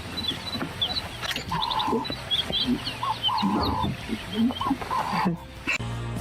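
Animal calls: many short high chirps like small birds, several held calls at one pitch and low grunting sounds. Music with a steady beat starts near the end.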